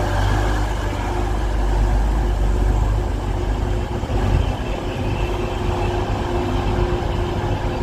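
Two coupled Class 185 diesel multiple units arriving at the platform: a steady low diesel and wheel rumble with a constant whine.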